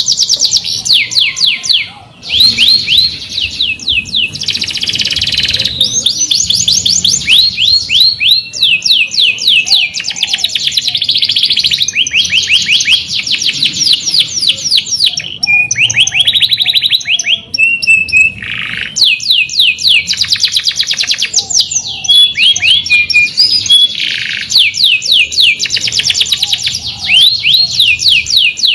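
Domestic canary singing a long, unbroken song of fast high trills: rapid runs of repeated sweeping notes, switching to a new phrase every second or two.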